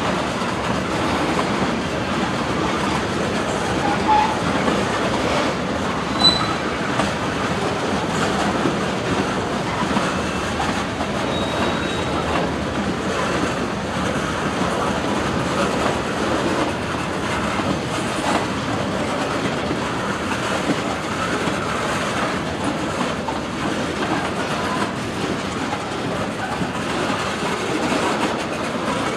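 Freight cars rolling past steadily, their wheels clicking over the rail joints, with a couple of brief high wheel squeals.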